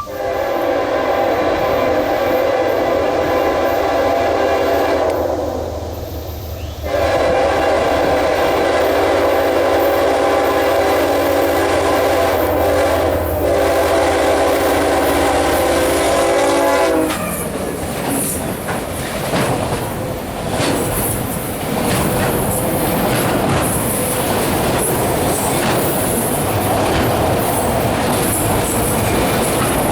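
CSX freight train's locomotive air horn sounding a chord: a first blast, a short break about five seconds in, then a longer blast that stops about seventeen seconds in. The train then rolls past close by, wheels clattering over the rail joints.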